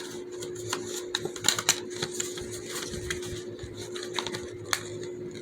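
Irregular clicks and taps of small plastic fidget toys being handled, with the sharpest clicks about one and a half seconds in and again near the end.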